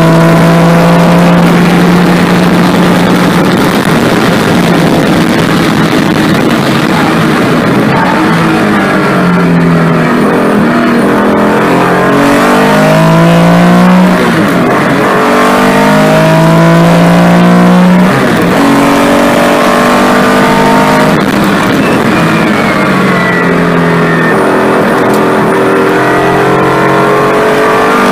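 Porsche 911's air-cooled flat-six engine heard from inside the cabin, driven hard on track: the revs climb and drop back again and again as the driver works through the gears.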